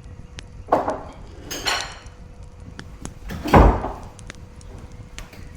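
A few knocks and clatters, the loudest a heavy thud about three and a half seconds in.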